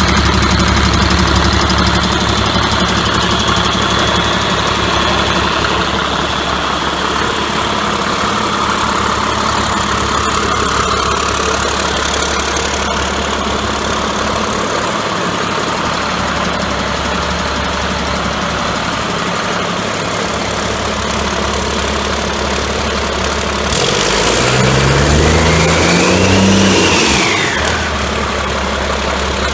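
Caterpillar C7 Acert inline-six diesel engine idling steadily. About 24 s in it is revved once, the pitch climbing and falling back to idle within about three seconds.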